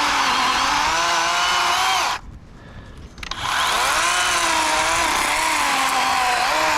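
Worx WG384.9 cordless electric chainsaw making an undercut in a pine limb, its motor whine dipping and wavering in pitch as it loads up in the wood. It stops for about a second a little over two seconds in, then starts up and cuts again.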